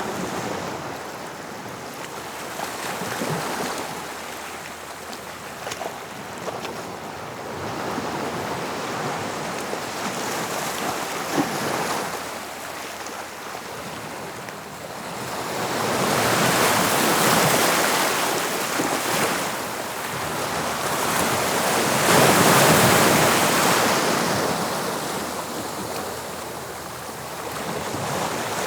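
Sea waves breaking on the shore, the surf rising and falling: smaller surges in the first half, then two big breakers crashing in the second half, with wind on the microphone.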